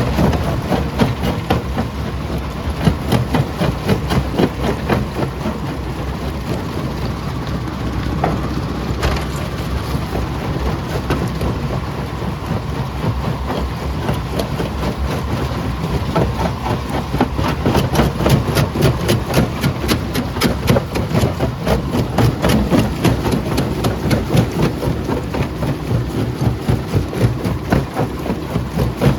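Primary jaw crusher running and crushing rock: a steady heavy machine noise under a dense clatter of stones cracking and tumbling, which grows busier about halfway through.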